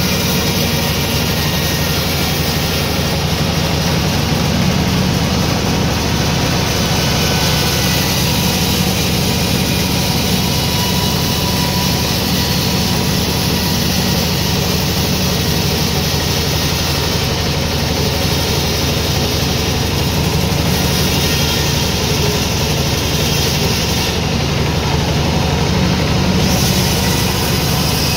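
Sawmill machinery running steadily, a loud, even mechanical drone with no breaks.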